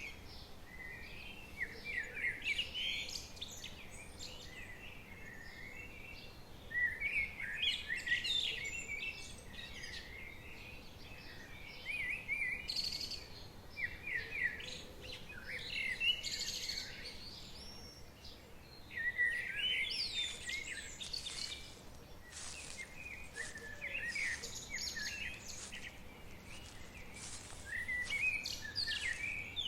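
Wild birds singing, quick chirping phrases in bouts every few seconds, over a faint steady background hiss.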